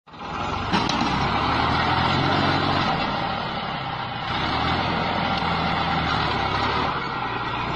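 A heavy vehicle's engine running steadily, with a wide rushing noise over it.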